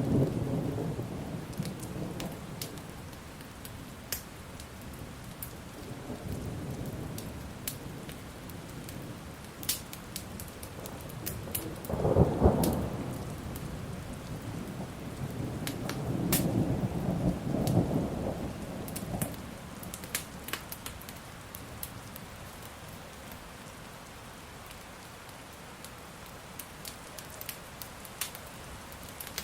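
Thunderstorm: steady rain with three rolls of thunder, the loudest and sharpest about twelve seconds in, and a long rumble a few seconds later. Sharp pops and crackles of a wood fire are scattered over it.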